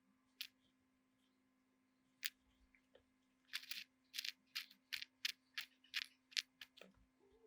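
A series of sharp small clicks over a faint steady hum. Two come singly early on, then a quicker run of about a dozen follows at roughly three a second from about three and a half seconds in.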